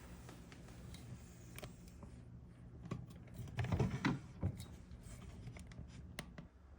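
Scattered small clicks and taps of tiny metal lock tumblers and tools being handled, with a cluster of louder knocks about four seconds in.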